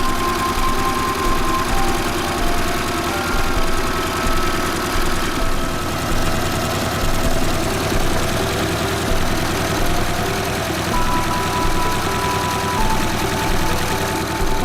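Engine of a 1961 Kubota T18 tractor running steadily at low speed, with a fast, even knock from its firing strokes.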